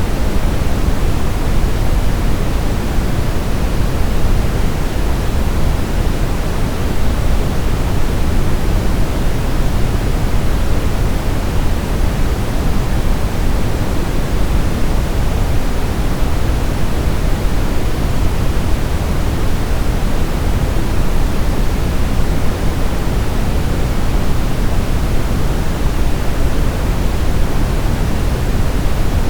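Steady brown noise: a constant, even hiss weighted heavily toward the low end, deep and rumbling with the highs rolled off, unchanging throughout.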